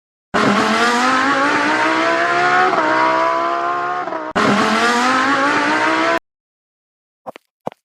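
Racing car engine sound effect revving up with its pitch climbing, cut off abruptly about four seconds in and starting again at once, then stopping dead about six seconds in. Two short soft taps follow near the end.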